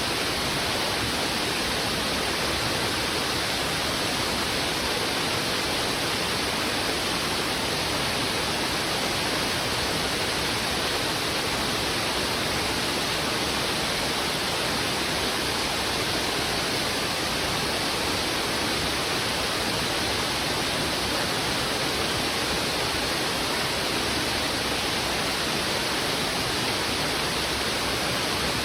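Heavy river water rushing fast over rocks: a steady, unbroken roar of flowing water that does not change in level.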